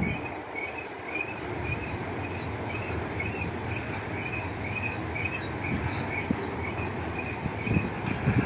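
Freight train cars rolling past on the rails, a steady rumble with a short high-pitched squeak repeating about twice a second.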